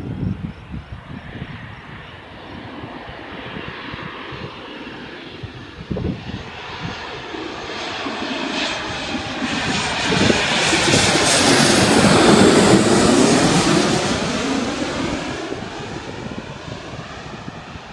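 Embraer E-190 airliner's twin turbofan jet engines on landing approach. The jet noise grows steadily louder as the plane nears, is loudest about twelve to thirteen seconds in as it passes, then fades away.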